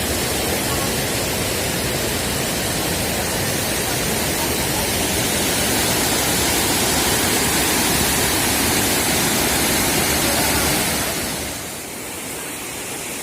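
Water rushing steadily over a small village check dam (bandhara), a continuous dense rush that turns quieter about 11 seconds in.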